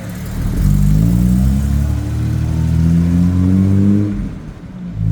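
A car's engine accelerating hard, its pitch climbing steadily for about three seconds before it drops away, followed by a short renewed burst of engine noise near the end.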